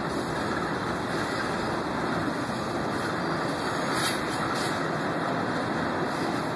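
Two GE diesel-electric freight locomotives, a Norfolk Southern D9-44CW and a CSX AC4400CW, each with a V16 diesel, passing one after the other at the head of a coal train of empties: a steady rumble of engines and rolling wheels.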